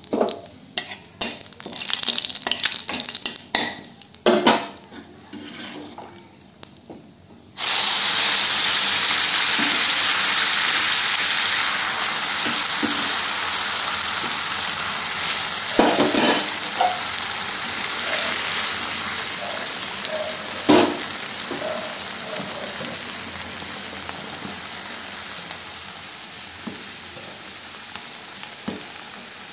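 Radhuni and nigella seeds crackling and popping in hot oil: the phoron (tempering) for dal. About seven and a half seconds in, the boiled dal goes into the oil and breaks into a loud, steady sizzle that slowly dies down. A spoon knocks against the pan a couple of times.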